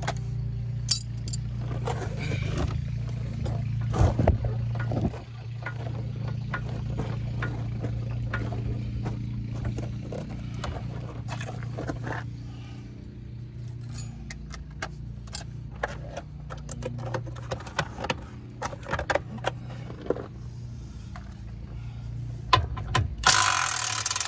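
Metal hand tools and parts clinking and rattling in short irregular clicks, over a steady low hum.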